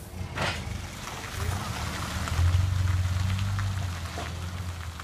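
Dump truck's diesel engine running, building up about two seconds in and holding for over a second before easing, under a rushing noise. A short sharp clatter comes about half a second in.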